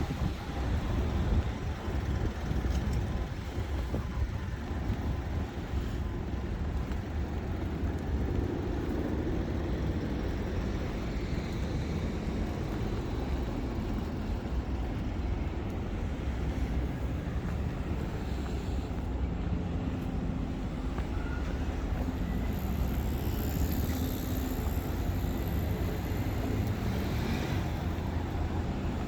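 City street traffic noise: road vehicles passing in a steady low noise.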